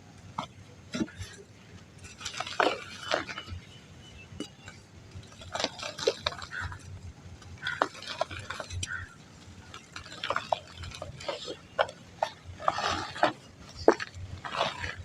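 Dry mud lumps being crumbled by hand: crisp crunches and crackles in bursts about every two to three seconds, with scattered small ticks between them.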